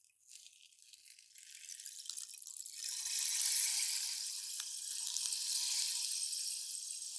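Rainstick: its light, high, rain-like patter dies away right at the start, then builds back up over about three seconds into a steady shower.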